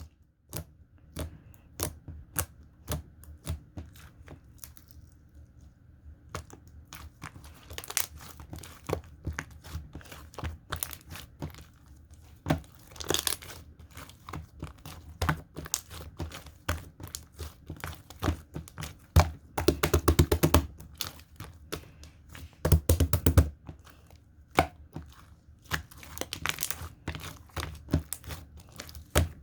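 Hands squishing and pressing slime: a steady stream of sticky pops and clicks, with two longer spells of rapid crackling past the middle.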